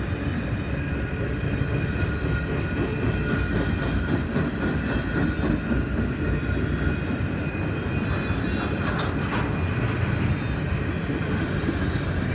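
Canadian Pacific grain train rolling slowly past: a steady low rumble of cars on the rails, with steady high-pitched tones above it.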